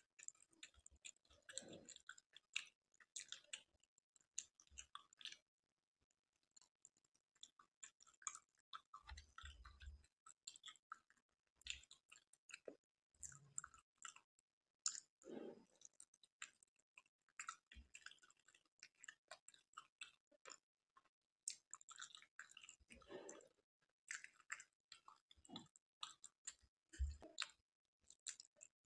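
Faint close-miked chewing of soft, syrup-soaked kala jamun: irregular wet smacks and small mouth clicks, with a few softer low bumps between them.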